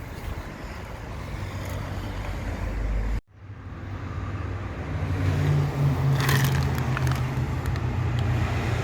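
A motor vehicle's engine runs with a steady low hum under outdoor noise. The sound cuts off abruptly about three seconds in and builds back up, with a few sharp clicks a few seconds later.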